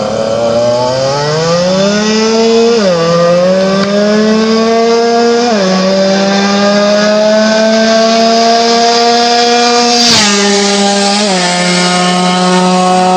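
Yamaha F1ZR single-cylinder two-stroke engine breathing through an experimental Malaysia-style exhaust, running at high revs under acceleration. Its pitch climbs, falls back sharply, and climbs again three times, as at upshifts.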